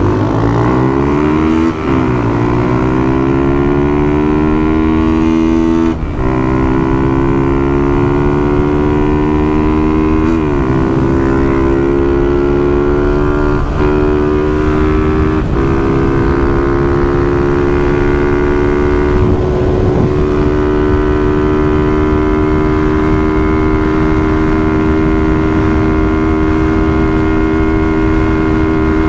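Small motorcycle engine accelerating hard under full throttle, its ignition's rev limit raised to 10,000 rpm. The revs climb and drop back at each upshift, about five times in the first fifteen seconds or so, then hold high and steady at speed.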